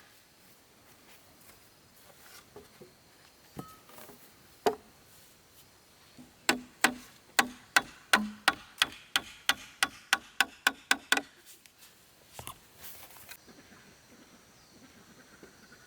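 Hammer driving nails into wooden formwork. About six seconds in comes a quick run of some fifteen blows that speed up toward the end, with a few single knocks before and after.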